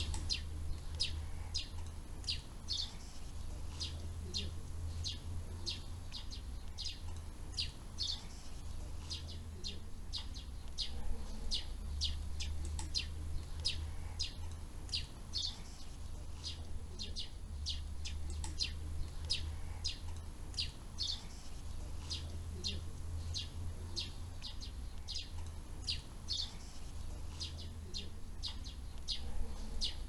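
Birds chirping: short, high chirps repeated about twice a second, over a low steady rumble.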